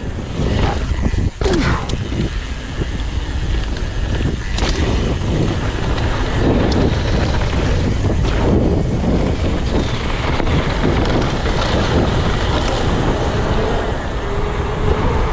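Wind rushing over a mountain bike rider's camera microphone during a downhill descent, with tyre noise and the bike rattling over rough, wet trail. Now and then a sharp knock comes through from hitting bumps and roots.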